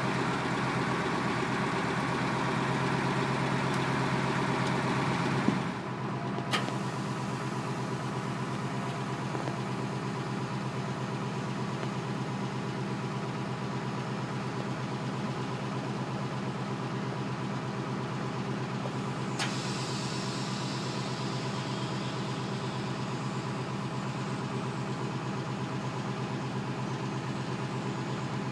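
Truck engine idling steadily. About six seconds in a click comes and the sound drops a little, losing its lowest rumble; a few faint clicks follow.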